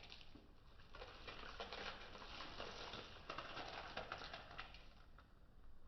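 Crispy fried onion pieces shaken from a sachet onto chicken wings: a faint, irregular patter of many small crackly ticks.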